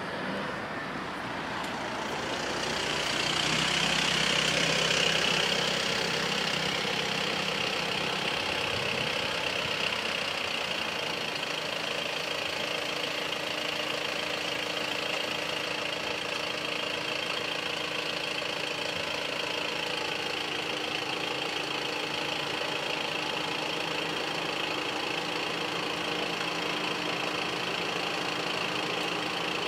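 A car pulls up and stops close by, loudest about four to six seconds in, then its engine idles steadily.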